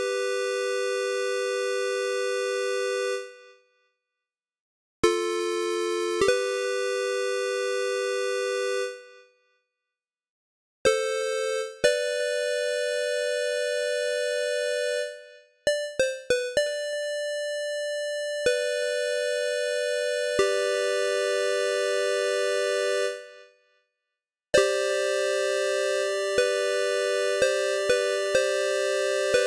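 GarageBand synthesizer playing held electronic chords on iPad, each chord sustained for a few seconds and then fading out, with short silences between phrases. Partway through the notes change more quickly, and near the end short accented notes are layered over a held chord.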